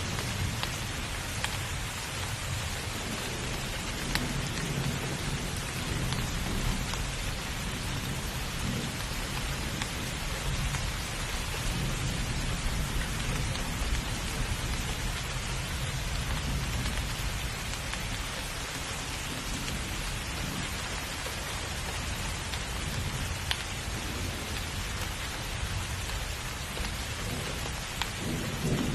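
Heavy rain falling steadily, with low rumbling thunder swelling and fading underneath and a louder roll of thunder near the end.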